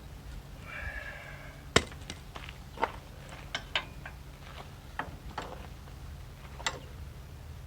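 A short squeak, then a sharp click, then scattered lighter clicks and knocks from hand tools and parts being handled while working on a truck's front end.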